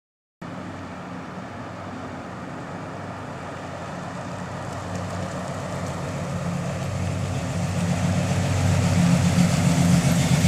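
1966 Chevelle SS's 396 big-block V8 running at a steady idle, starting abruptly about half a second in and growing steadily louder.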